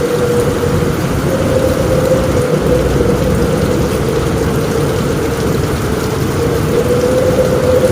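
Heavy rain drumming steadily on a roof, with a deep continuous rumble and a steady hum underneath.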